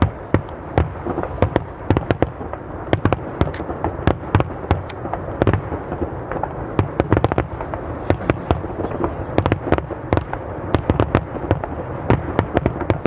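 Aerial fireworks display: a rapid, continuous barrage of shell bursts, several sharp cracks and bangs a second over a steady rumble of booms.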